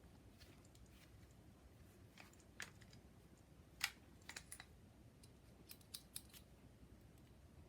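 Near silence broken by a few faint, sharp clicks and snips at uneven intervals, the sharpest about four seconds in.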